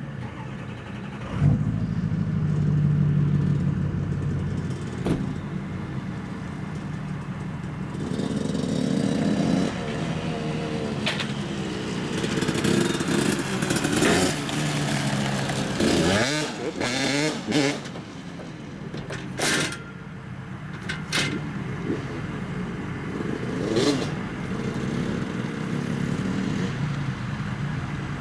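Dirt bike engines revving up and easing off, the pitch rising and falling several times, busiest in the middle. A few short sharp knocks are heard along the way.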